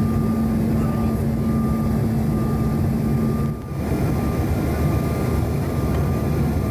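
Steady cabin noise inside a Bombardier CRJ-900 with its engines running: an even rush of engine and air noise with a steady hum. The level dips briefly about halfway through, and the hum is gone after it.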